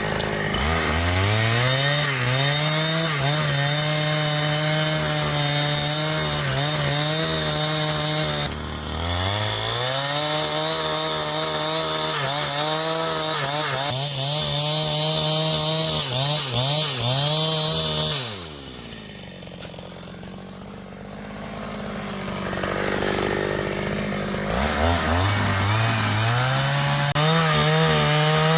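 Petrol chainsaw revving up to full throttle and cutting wood, its engine note wavering under load. It drops back briefly about eight seconds in and revs again. Later it falls to a quieter idle for several seconds before revving up once more near the end.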